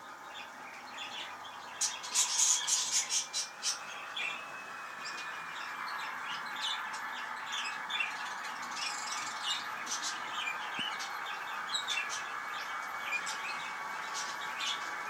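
Small birds chirping and squawking, with a dense flurry about two seconds in, over a steady hiss that grows a little from about four seconds.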